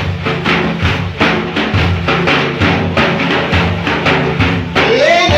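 Frame drums beating a steady, fast rhythm of about four strokes a second, with deep thumps under lighter slaps, accompanying a Prophet-praise chant. Near the end a solo voice comes in on a rising sung note.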